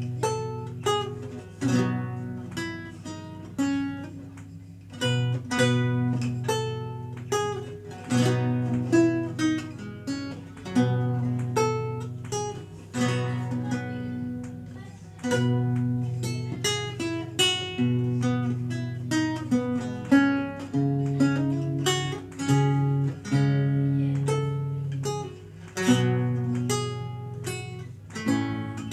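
Renaissance lute played solo: a continuous flow of plucked notes and chords, each fading after it is struck, over bass notes that change every second or two.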